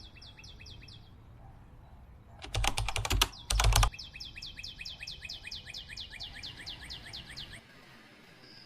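A bird sings a rapid series of short, falling chirps, about four a second. About two and a half seconds in come two loud flurries of quick clicks or taps, each lasting under a second.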